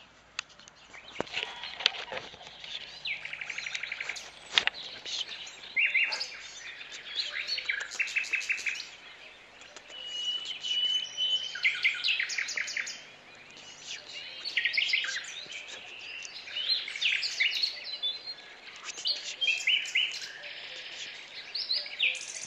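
Birds chirping and chattering: repeated short series of rapid notes, with a longer held note about halfway through. A few sharp clicks come in the first few seconds.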